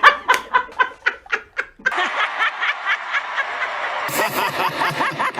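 A woman laughing in quick, rhythmic 'ha-ha' pulses, about five a second, spliced together from several recordings: one clean laugh, then from about two seconds in a laugh over a hissy background, with another abrupt cut about four seconds in.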